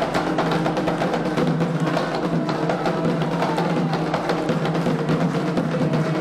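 Candomblé ritual drumming: atabaque hand drums and other percussion playing a dense, steady rhythm without a break.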